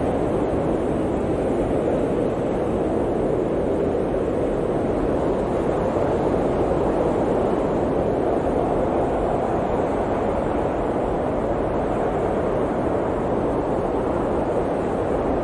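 Blizzard wind blowing steadily, a dense rushing noise that swells and eases slightly.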